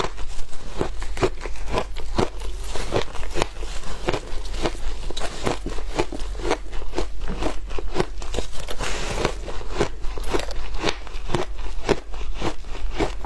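Shaved ice being bitten and chewed close up: a continuous series of sharp, crackly crunches, about three a second.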